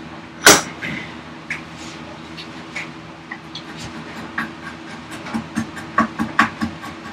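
Chisel paring the end grain of an ash workpiece by hand: a string of short scraping cuts, with one sharp knock about half a second in and a quicker run of strokes near the end.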